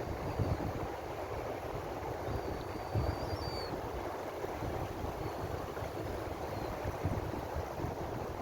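Ocean waves washing on a shore: a continuous wash of surf with a low, uneven rumble underneath.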